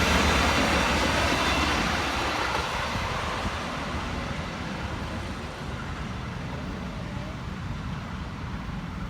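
A train passing on the track, its loud wheel-on-rail noise dying away over the first few seconds and leaving a low rumble.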